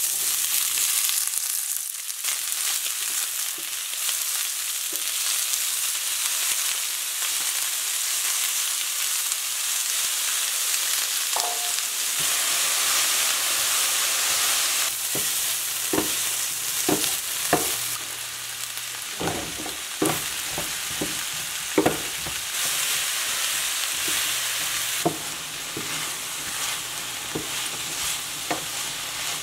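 Chopped asparagus and onion sizzling in a hot stainless steel skillet, the sizzle starting suddenly as the vegetables go in and holding steady. From about halfway on, a wooden spatula stirs them, with frequent short knocks and scrapes against the pan.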